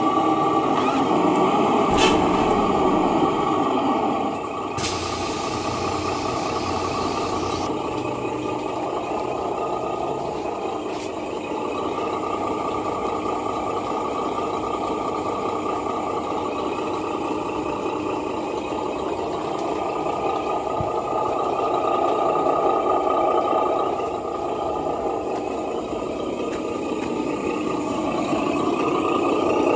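Sound module of a 1/10 scale RC Scania truck playing a diesel truck engine running steadily. About five seconds in, an air-brake hiss starts abruptly, lasts a couple of seconds and cuts off.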